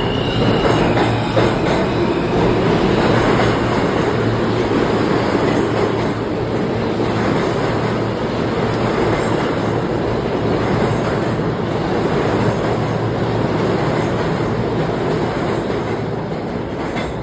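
New York City subway train running through the station: a steady loud rumble of wheels on rail with track noise.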